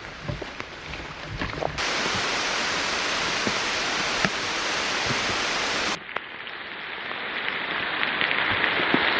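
Heavy rain falling in a steady hiss, with a few separate drop hits at first. The sound changes abruptly twice: about two seconds in it becomes louder and brighter, and about six seconds in it turns duller and then builds up gradually.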